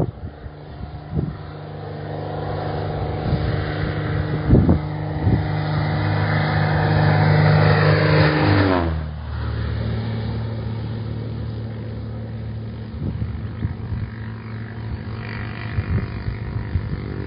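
A Cessna's engine running up under test, growing louder for about eight seconds. It is then throttled back abruptly and settles to a steady lower speed, with a few short knocks early on.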